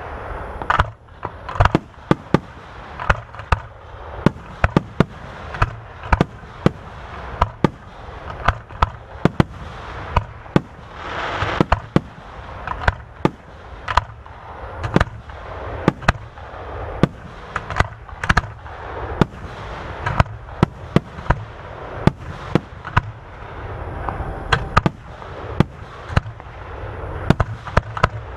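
Aerial display fireworks going off in quick succession: many sharp bangs, several a second, over a continuous low rumble and crackle of bursting shells, with a denser burst of crackling about eleven seconds in.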